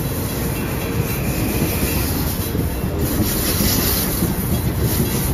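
Kawasaki M8 electric multiple-unit train rolling past along the platform: a steady rumble of wheels and running gear on the rails.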